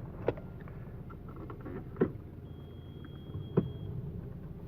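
Audi A4 B5 engine running steadily in gear with a low rumble, while the drive does not reach the wheels: the drive shaft has come loose from the transmission. Three sharp clicks come about a second and a half apart, with a brief high tone between the second and third.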